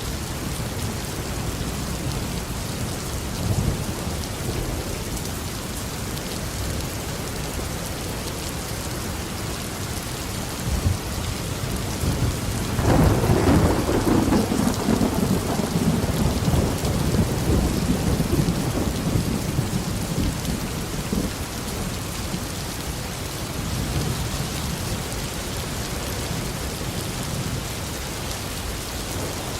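Steady heavy tropical rain falling on a garden, with low thunder rumbling throughout; about halfway through a louder thunderclap breaks and rolls away over several seconds.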